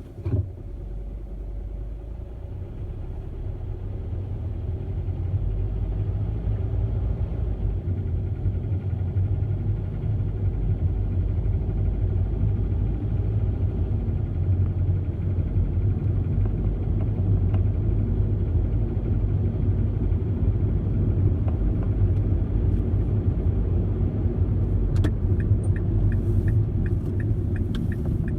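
2010 Mazda 3 2.5-litre four-cylinder car under way, with a low steady drone that builds over the first few seconds and then holds: the odd noise that occurs when driving between 1500 and 2000 RPM. A run of evenly spaced light ticks comes in near the end.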